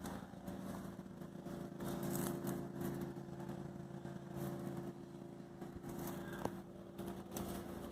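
A steady, low machine hum, with a single knock about six and a half seconds in.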